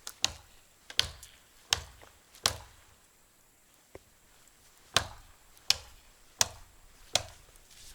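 Axe chopping into a tree trunk to fell it: sharp blows about 0.7 s apart, four, then a pause of a couple of seconds, then four more.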